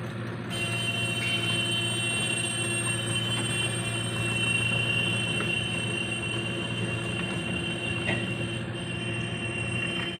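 Small motor of a DIY mini tractor running steadily, with a high-pitched whine that joins the hum about half a second in.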